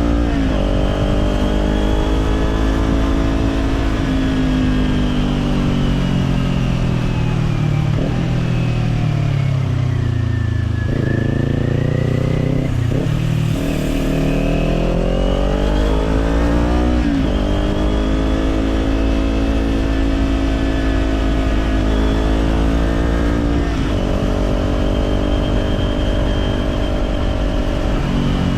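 Kawasaki Z400 parallel-twin engine through an Orion Katya slip-on exhaust, ridden on the road. The engine note falls steadily for about ten seconds as the bike slows, then climbs through the gears with upshifts at about 13 and 17 seconds. It then settles into a fairly steady cruise.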